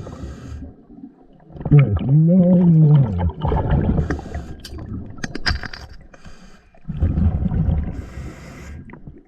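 Underwater sounds of a scuba diver breathing through the regulator, with rushing, bubbling breaths near the start and again from about seven seconds in. A muffled hum-like tone rises and falls about two seconds in, and a few sharp clicks come around five seconds in.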